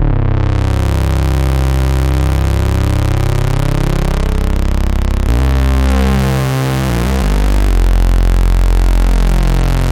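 A 2022 reissue Minimoog synthesizer playing thick, sustained low notes, its filter opening to a bright, buzzy tone in the first half second; the note changes about five seconds in.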